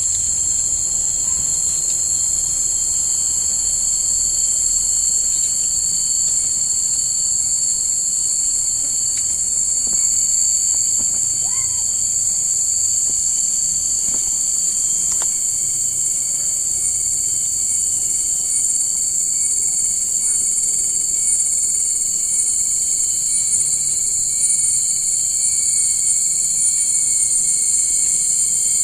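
Insects calling in a continuous, steady high-pitched drone, with a second, lower steady tone beneath it.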